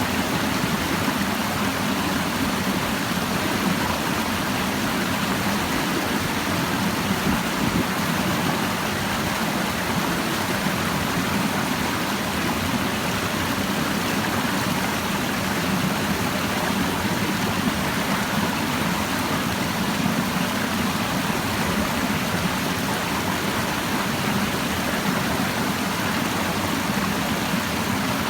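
Clear mountain stream babbling over rocks, a steady rush of flowing water.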